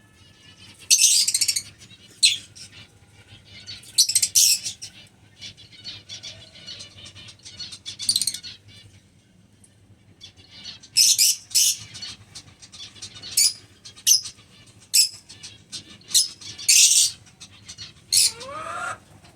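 Lovebirds (albino black-eyed lovebirds) giving shrill, high-pitched chirps in short, irregular bursts, with a rising squeal near the end.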